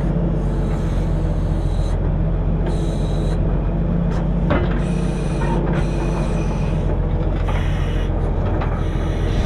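Diesel engine of a self-loading log truck running steadily while its loader handles logs, with a sharp knock about four and a half seconds in.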